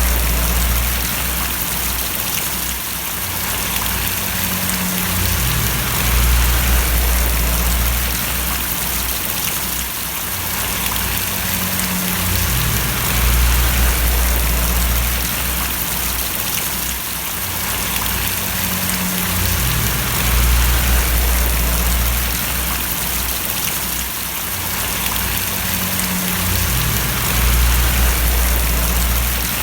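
Steady rain falling and splashing, with a low hum underneath that swells and fades about every seven seconds.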